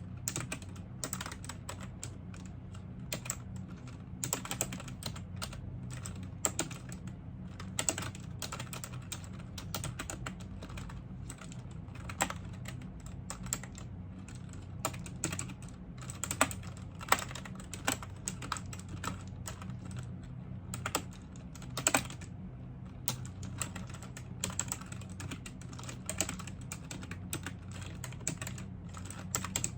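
Typing on a computer keyboard: a steady stream of irregular key clicks, with an occasional louder key strike, over a low steady hum.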